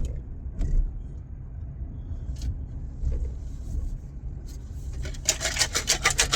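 Low, steady rumble of a vehicle, with a few faint clicks. About five seconds in, a loud, fast rattling starts, about six strokes a second.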